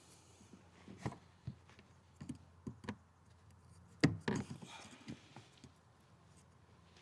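Scattered clicks and light knocks of hands working at the fuel-line quick-connect clips on a fuel pump flange, the loudest cluster about four seconds in.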